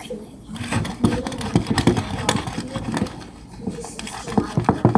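Kitchen handling noise from cake pans and utensils: a run of quick clicks and knocks that come faster near the end, with a faint voice talking in the background.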